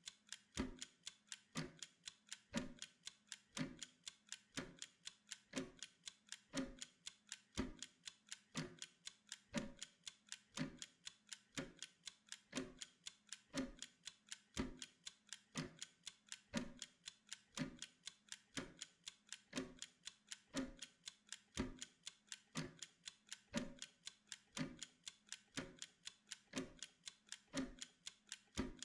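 Mechanical kitchen timer ticking steadily and evenly as it counts down.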